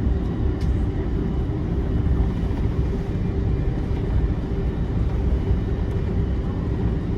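Cabin noise of an Airbus A330-300 taxiing: a steady low rumble of its Rolls-Royce Trent 700 engines at taxi power, with a faint steady whine above it.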